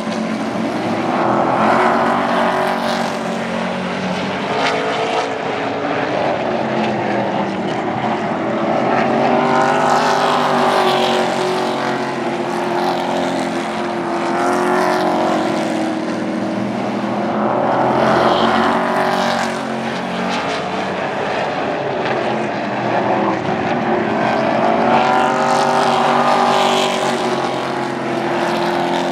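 Super Truck race trucks' engines running at racing speed around an oval track, swelling louder and bending in pitch roughly every four seconds as the field passes and pulls away.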